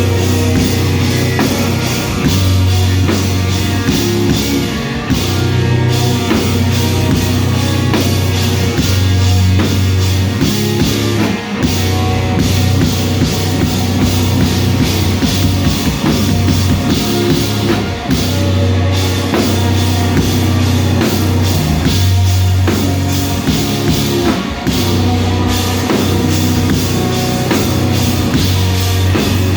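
Live rock band playing loud, with drum kit, distorted guitars and bass, heard through a small recorder's microphone in the room.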